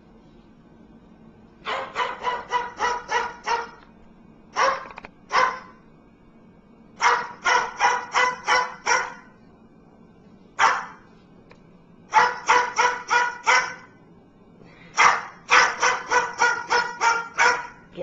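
A pet bird mimicking a dog's bark: runs of sharp, high-pitched yapping barks, several a second, each run lasting a second or more, with single barks in between.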